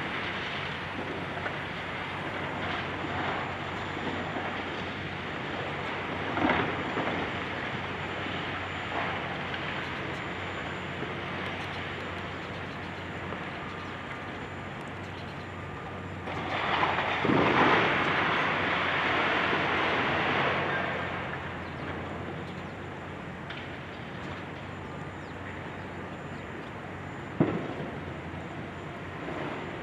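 Demolition work: a high-reach excavator's diesel engine running steadily amid crunching and clattering debris. A louder stretch of crashing lasts several seconds from about 17 seconds in, and there are short knocks about six seconds in and near the end.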